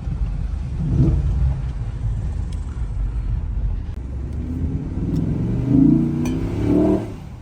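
Cadillac Escalade's 6.2-litre V8 breathing through a Banks cold air intake while driving: a steady low rumble, then revving up with a rising note from about four and a half seconds in, loudest around six seconds, and dropping away near the end.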